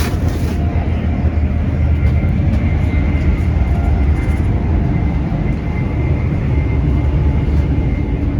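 Steady, loud rumble of a high-speed intercity train running at speed, heard from inside the carriage.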